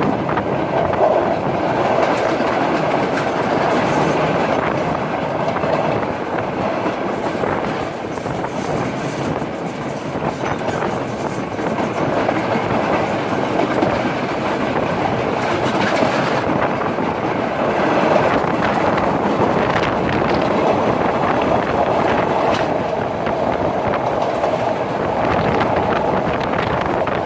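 Udaya Devi express passenger train running along the line, a steady rumble of the carriages with the wheels clicking over rail joints.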